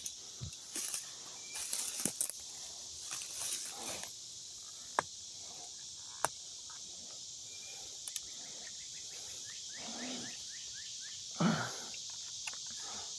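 Steady high-pitched chorus of insects, with intermittent rustling and a few sharp clicks as a trail camera is handled and pulled off its mount.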